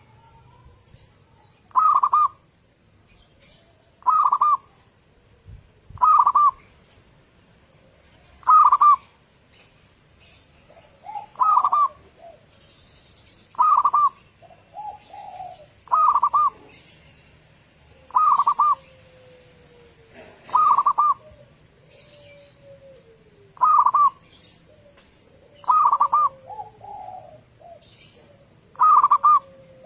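Zebra doves (perkutut) singing: a short, rapid cooing phrase repeated about every two seconds, with fainter, lower sliding coos and faint high chirps of small birds in between.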